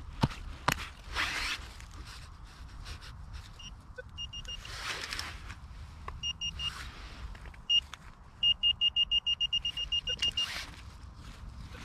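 Minelab Vanquish 440 metal detector giving its target tone: short single beeps at one pitch, then a fast run of about eight beeps a second near the end as it is swept over a buried target. Earlier come a few sharp knocks and scraping from digging at the spot.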